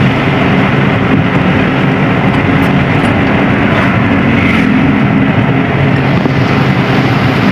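Car engine running steadily with road noise, heard from inside the cabin while driving: an even, unbroken hum.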